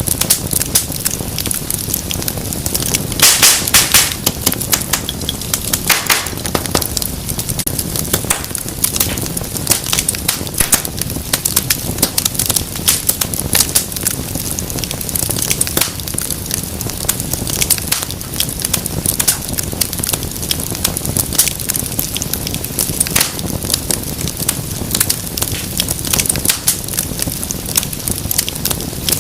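Wood fire crackling, a dense run of small pops and snaps over a low steady rush. There is a cluster of louder snaps about three seconds in and another near six seconds.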